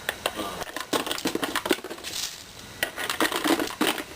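Small rocks clattering and clinking as they are dropped into a bottle to weigh it down, an irregular run of sharp clicks and knocks.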